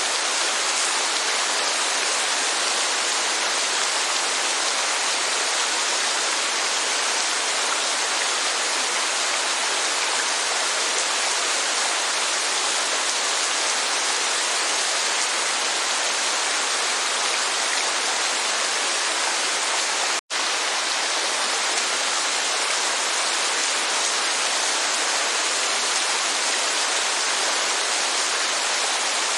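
Steady rain and waterfall, an even rushing hiss of falling water, which cuts out for an instant about two-thirds of the way through.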